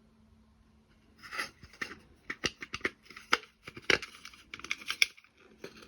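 Small wooden clock-kit parts being handled and fitted: a quick run of sharp clicks and scraping, rustling noises starting about a second in.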